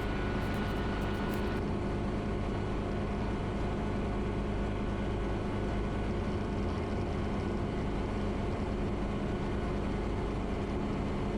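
Steady drone of a Schweizer 300 light helicopter in cruise flight, its piston engine and rotors heard as cabin noise. A faint thin whine stops about a second and a half in.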